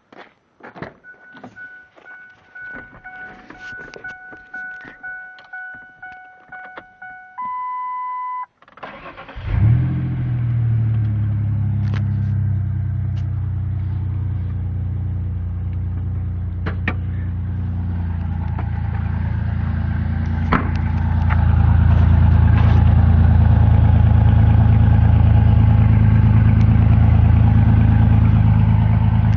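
A warning chime with clicks and key rattles, then the straight-piped 1996 Ford Ranger's V6 cranks and starts about nine seconds in and idles through its open exhaust, running louder from about two-thirds of the way through.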